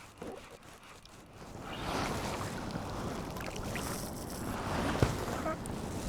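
Water sloshing against a sea kayak's hull with wind on the microphone, growing louder about two seconds in. There is a single sharp knock near the end.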